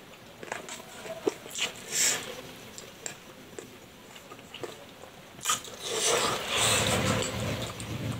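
Close-up mouth sounds of someone eating spicy boneless chicken feet: wet chewing and smacking, with a few short clicks of a plastic spoon against a metal tray. The chewing noise grows louder for the last couple of seconds.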